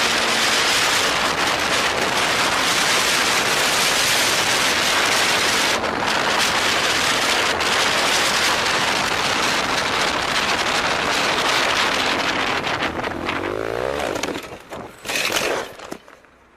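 Steady road and wind noise of a moving vehicle, with an engine note whose pitch bends upward shortly before the end. A brief louder burst follows, then the sound cuts off.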